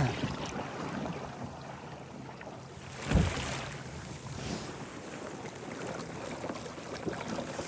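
Water washing around a kayak under way through a light swell, with wind on the microphone. A louder low thump about three seconds in.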